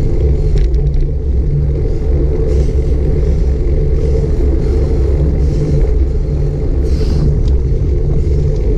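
Steady low rumble of wind buffeting and road noise on a bike-mounted GoPro Hero 5 Black's microphone while cycling, with a few faint brief clicks or rattles.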